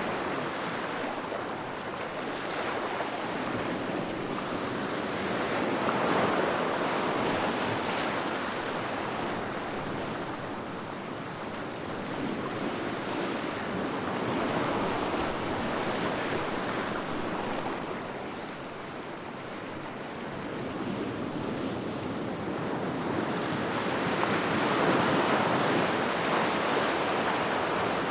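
Sea waves breaking and washing on a shore, a continuous rushing surf that swells and eases in slow surges roughly every eight to ten seconds, with some wind noise on the microphone.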